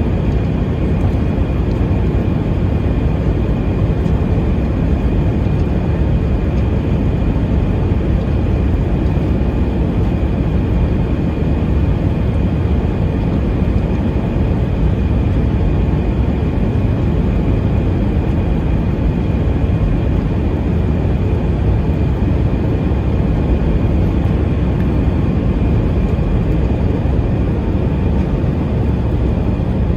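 Steady cabin noise inside an Airbus A320-232 in flight: a continuous rush of airflow and engine drone, strongest in the low end, with a faint steady high whine over it.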